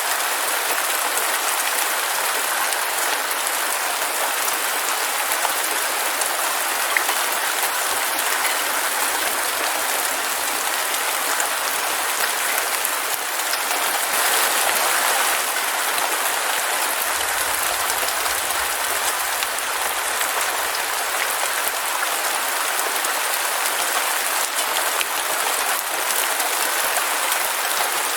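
Heavy rain falling steadily, a dense even hiss of countless drops with no change in strength.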